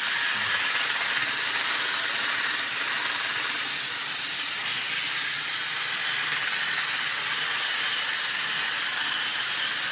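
Toy Henry the Blue Engine train running laps on its track: a steady hissing whir.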